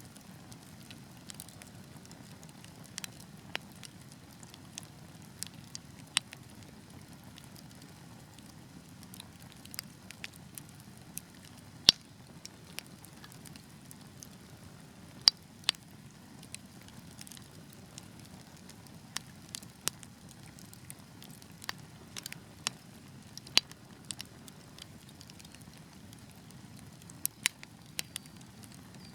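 Wood fire burning with a steady low rumble and irregular crackles and sharp pops, a few of them loud.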